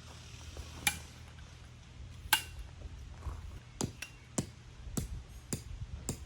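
Sharp metallic strikes, some with a brief ring: a few scattered hits, then a steadier run of about two a second.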